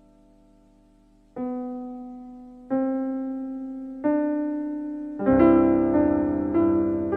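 Slow piano music: a fading chord, then single notes struck about a second and a half apart, each dying away, and a fuller chord with two more notes in the last two seconds.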